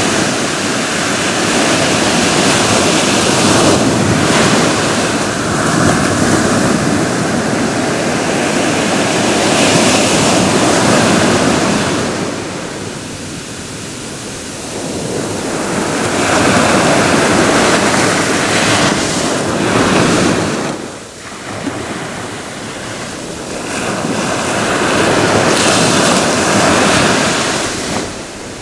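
Ocean waves breaking and washing on a shore, a continuous surf that swells and ebbs, easing off briefly about halfway through and again near the end.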